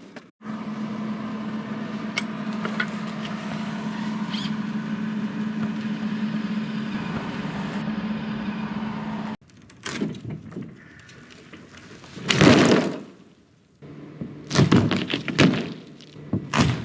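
Metal-fabrication work: a power tool runs with a steady hum for about nine seconds and then cuts off. After it come a series of metal clunks and knocks, the loudest about twelve and a half seconds in.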